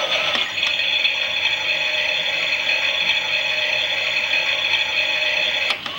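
A Klein toy Miele washing machine's small battery motor and plastic gears are whirring steadily as they turn the drum. There are sharp clicks about half a second in and again near the end.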